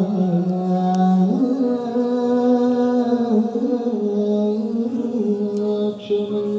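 Vocal music: a voice chanting long held notes that step up and down in pitch.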